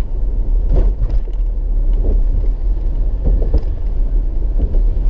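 Car road noise heard from inside the moving car: a steady low rumble of engine and tyres.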